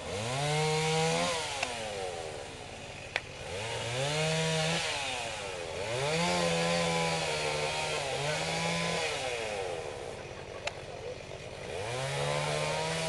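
Two-stroke chainsaw revved in four bursts: each time the engine note climbs quickly, holds high for one to three seconds and drops back to idle. A couple of sharp knocks come between the bursts.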